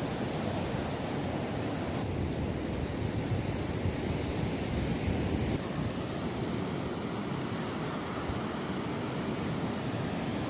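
Waves washing on the beach with wind, a steady rushing noise that shifts slightly about two seconds and five and a half seconds in.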